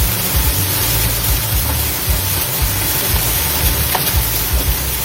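Dust-storm wind blowing hard: a steady loud hiss, with gusts buffeting the microphone in an uneven low rumble.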